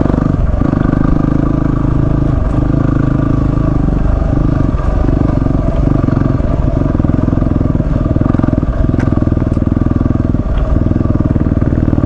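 A single-cylinder dual-sport motorcycle engine running under way off-road. The engine note dips briefly every second or two as the throttle eases over the rough track, with some light clatter.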